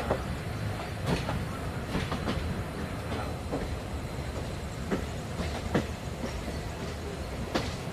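Jhelum Express passenger train running on the track: a steady low rumble of wheels on rail with irregular clicks and knocks from rail joints and the coaches.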